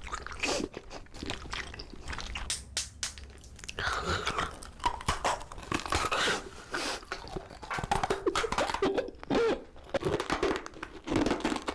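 A person biting into and chewing crunchy food close to the microphone, a run of short crackling crunches.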